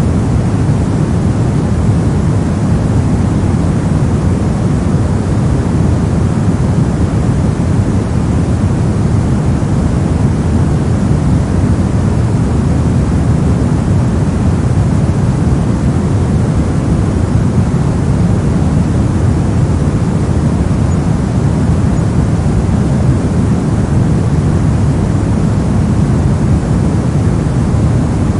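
Steady generated white noise: an even, unbroken hiss at a constant level, its energy heaviest in the low end so it sounds deep rather than bright.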